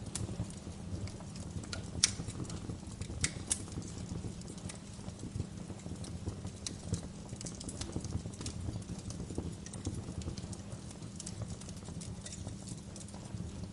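Wood fire crackling: irregular sharp pops and snaps over a steady low rumble, with one louder pop about two seconds in.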